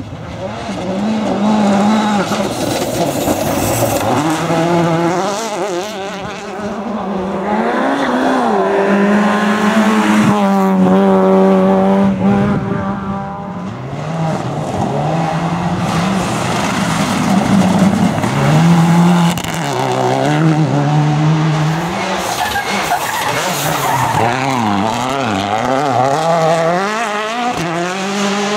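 Rally cars at full throttle on a stage, engines revving hard and shifting up, pitch climbing and falling back over and over, with a long high-revving stretch near the middle. Tyre squeal and skidding mixed in.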